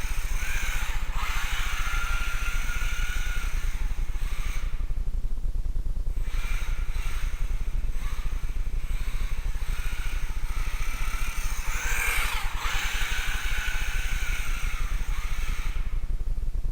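Electric motor and gear whine of a 1/16 four-wheel-drive RC rally car driving, the pitch rising and falling with the throttle and dropping out twice, with a quick up-and-down sweep about 12 seconds in. A steady low rumble sits underneath.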